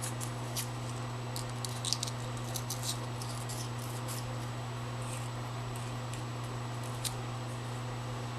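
Inside of a metal piston tube being scored with a hand tool: short, scattered scratches and ticks, most in the first three seconds, over a steady low hum.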